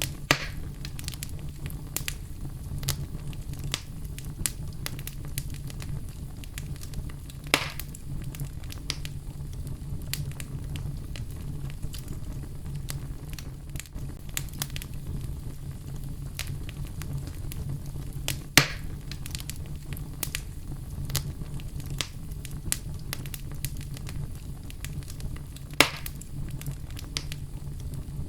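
Wood fire crackling in a fireplace: a steady low rumble of flames under frequent small crackles, with four louder pops spread through.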